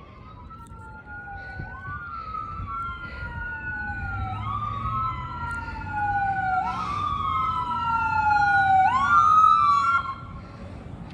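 Ambulance siren wailing in repeated sweeps, each a quick rise then a slow fall in pitch, over a vehicle rumble. It grows louder as it approaches and cuts off suddenly about ten seconds in.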